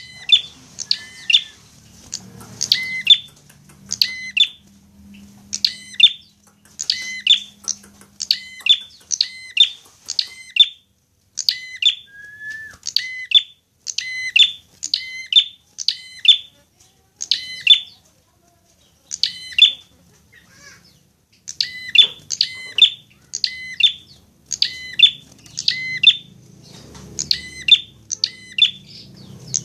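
Prenjak (prinia) calling: a long string of sharp, chirping notes, each dropping quickly in pitch, repeated roughly once or twice a second, with a pause of a few seconds about two-thirds of the way through.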